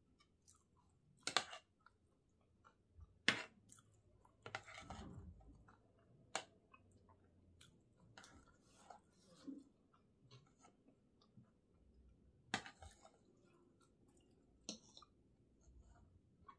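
A person eating close to the microphone: quiet chewing and mouth sounds, broken by about five sharp clicks of a spoon and fork against the plates.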